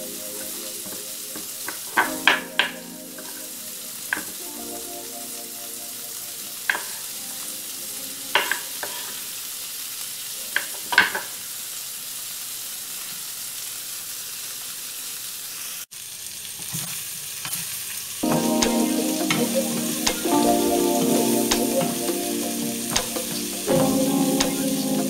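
Chicken and bell peppers sizzling in a frying pan, with several sharp clicks of a knife striking a wooden cutting board during the first half. After a brief break, the sizzling is louder while the food is stirred with a wooden spatula.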